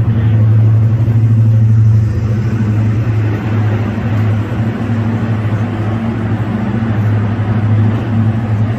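Diesel locomotive engine running at idle close by, a loud steady low hum that wavers slightly.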